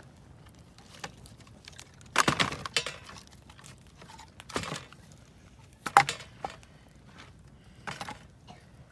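Wood campfire crackling, with irregular sharp snaps and pops: a quick cluster about two seconds in and the loudest single pop about six seconds in.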